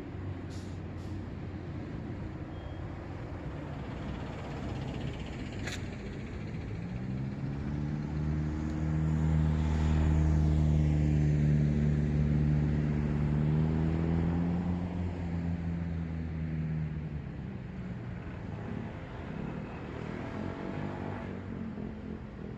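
Road traffic rumbling steadily, with one vehicle's engine drone swelling as it passes close, loudest mid-way and fading away over several seconds. A single brief sharp click about six seconds in.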